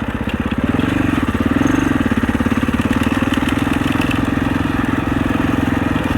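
Husaberg 650 enduro dirt bike's single-cylinder four-stroke engine running while being ridden. Its pitch rises briefly twice in the first two seconds, then holds steady.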